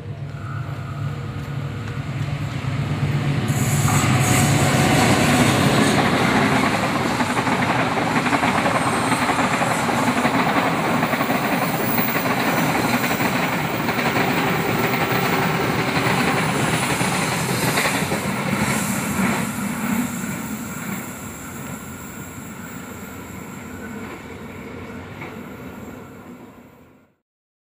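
A train passing close by, wheels running on the rails. The noise swells about four seconds in, stays loud for some fifteen seconds, then fades and cuts off just before the end.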